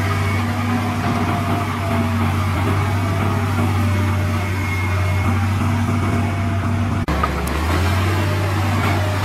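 Heavy diesel engine of earthmoving equipment running steadily with a low drone, cut off briefly about seven seconds in and then back again.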